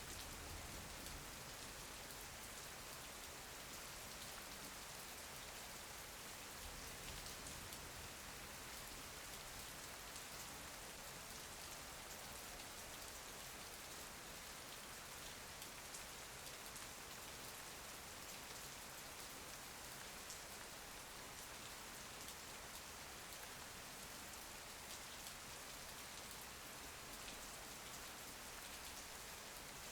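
Steady rain falling: an even hiss with many small drop taps, unchanging throughout.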